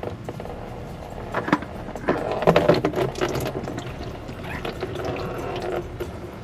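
Engine oil running and splashing into a catch pan, with scattered clicks from handling parts.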